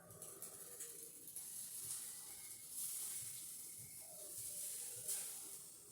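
Chicken pieces frying in melted butter in a pan: a steady sizzle that swells and eases a few times, with a small click about five seconds in.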